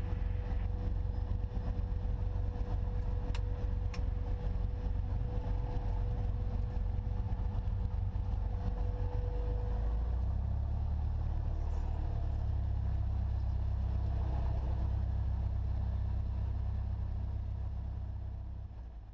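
Cessna 172SP's four-cylinder Lycoming IO-360 engine running at low taxi power, a steady low drone heard inside the cockpit, with two sharp clicks a few seconds in. The drone shifts in character about ten seconds in and dies away at the very end.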